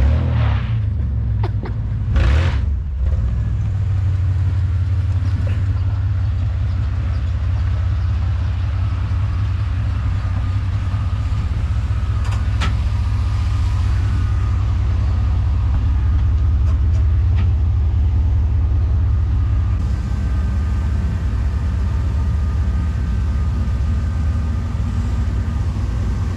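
A pickup truck's engine idling with a steady low rumble. A few sharp knocks sound in the first few seconds and one more about halfway through.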